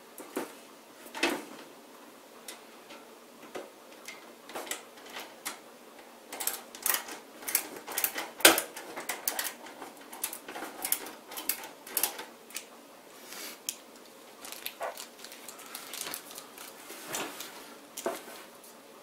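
Power supply mounting screws being driven by hand into the back of a PC case: a long run of irregular small metallic clicks and ticks, thickest through the middle.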